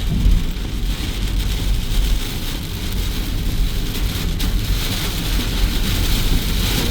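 Steady low rumble of a vehicle on the road with the hiss of heavy rain.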